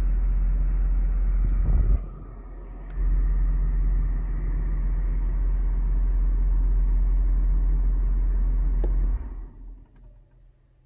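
Mercedes E63 AMG's 6.2-litre V8 idling with a steady low rumble, through an exhaust with straight pipes in place of the secondary cats and an X-pipe in place of the resonators. The level dips briefly about two seconds in and comes back. The engine shuts off about nine seconds in and the sound dies away.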